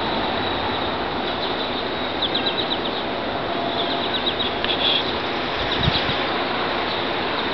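Steady rushing outdoor background noise, with three or four short bursts of rapid, high, chirping trills from small birds.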